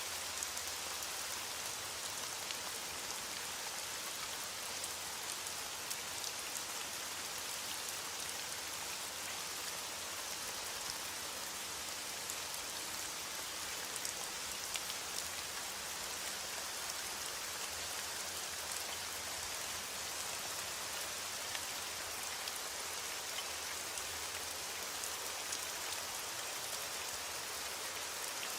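Steady rain falling, an even hiss dense with fine drop ticks.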